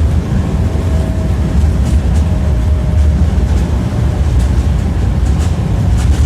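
Electric tram running along its track, heard from inside the car: a steady, loud rumble of the wheels on the rails with a few light clicks. A faint thin whine sounds during the first half.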